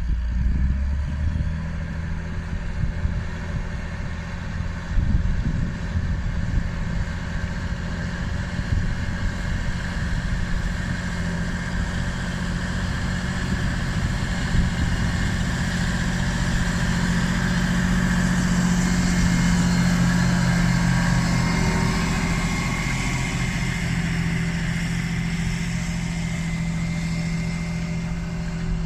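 John Deere 8530 tractor's six-cylinder diesel running steadily under load while pulling a plough, at around 1300 rpm. The engine note swells a little about two-thirds of the way through, then settles.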